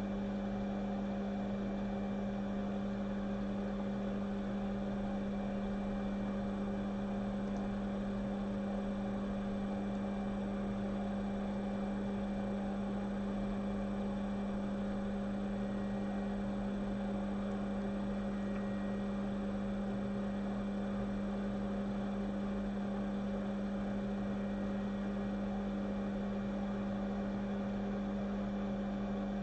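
A steady electrical hum with one strong low tone and fainter higher overtones, unchanging throughout.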